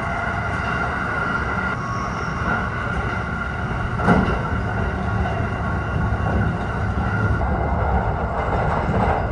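Running noise heard inside the carriage of a limited express train at speed: a steady rumble of wheels on rail with a faint hum, and a single knock about four seconds in.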